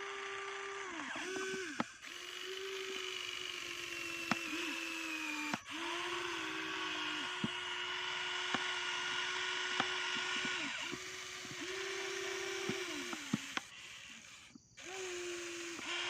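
Small electric motor of a toy radio-controlled vehicle whining steadily, stopping and starting again several times, with light clicks.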